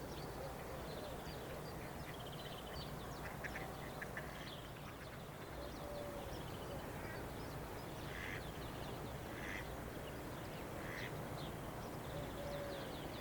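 Birds calling over and over, short high chirps and a few lower calls, over a steady low rumble.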